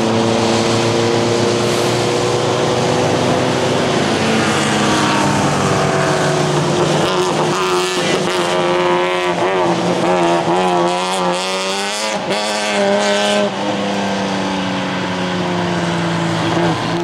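Classic racing car engines driven hard on the circuit, their revs rising and falling through gear changes and lifts. Through the middle stretch the engine pitch wavers rapidly up and down, as revs flare and drop during a slide.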